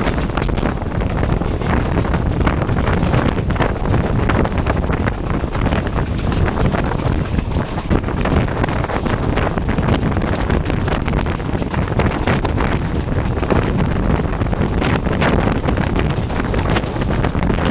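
Wind buffeting the microphone from the open door of a moving passenger train, over the steady running noise of the coach's wheels on the track.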